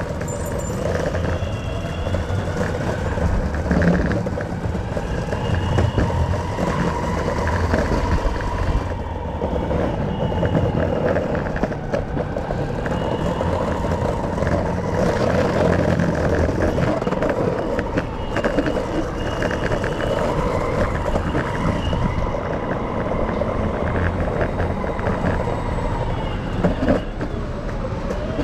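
Steady running noise of a motor vehicle in motion: a low rumble with faint whines that rise and fall.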